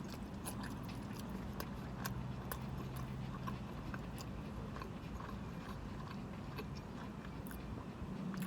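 A person chewing food, with soft scattered mouth clicks over a low steady hum.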